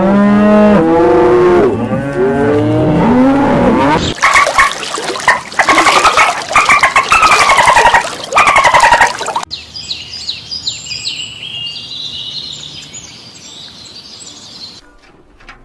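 A run of animal calls cut one after another: first many overlapping rising-and-falling calls, then louder harsh calls with falling pitch about once a second, then small birds chirping and trilling in high quick notes that fade near the end.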